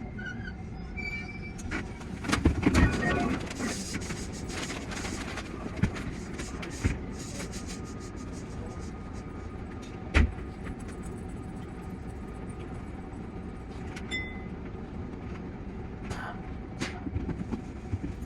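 Tsukuba Express TX-3000 series electric train running along the line, a steady rumble of wheels on rail with a cluster of knocks about two to three seconds in and single sharp clicks later, the loudest about ten seconds in.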